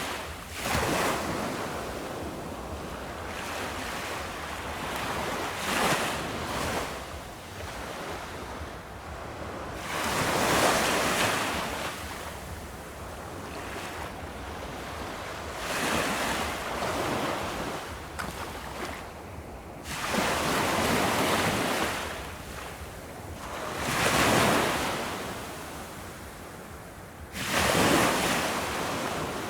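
Ocean surf on a beach: waves breaking one after another, each one a surge of rushing noise coming about every four to six seconds, over a steady wash of water between them.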